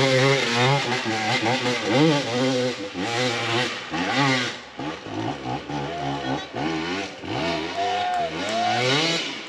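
Dirt bike engines revving hard and unevenly, their pitch rising and falling again and again as riders work the throttle on a steep hill climb.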